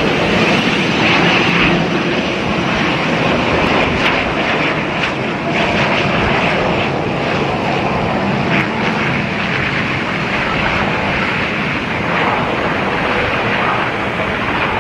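Jet airliner engines running, a loud steady noise that holds throughout.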